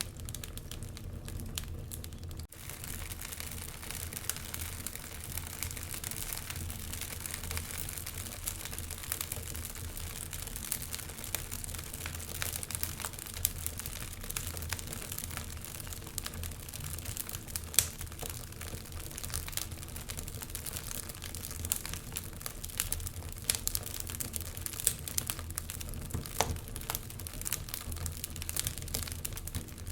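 Wood fire crackling in a fireplace, with frequent small irregular pops and snaps over a steady low rumble.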